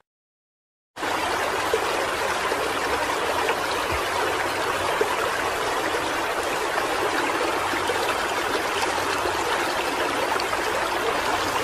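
Steady sound of running water. It starts suddenly about a second in, after a moment of silence.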